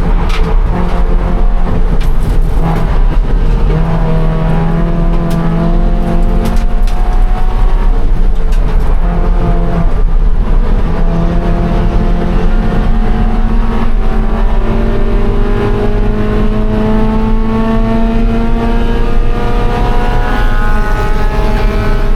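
2013 Scion FR-S's flat-four engine under load. Its pitch climbs slowly through several long pulls, dropping back between them.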